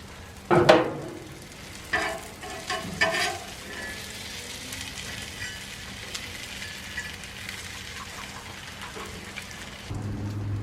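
Chicken frying in oil on a Blackstone flat-top griddle, a steady sizzle, with a few sharp metallic knocks in the first few seconds, the loudest about half a second in. A low hum begins near the end.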